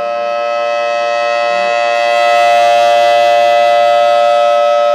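Outdoor civil defense warning siren sounding a steady tone, the tsunami warning. It swells louder about two seconds in, then eases off slightly.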